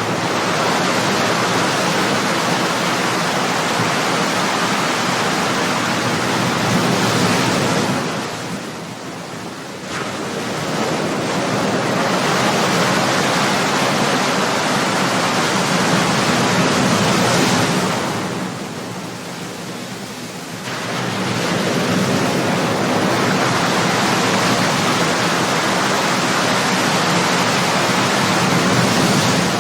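Ocean waves breaking and washing in, a continuous surf that swells and eases in long cycles, dropping back briefly about every ten seconds as each wave spends itself before the next one breaks.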